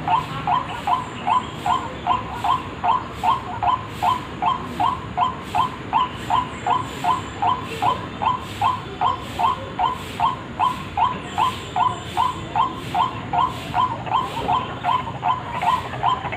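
White-breasted waterhen (ruak-ruak) call played as a bird lure: one short note repeated evenly and without pause, about two and a half times a second.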